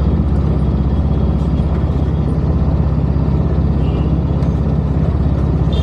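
Superbike engine running steadily at idle, a loud, even low throb.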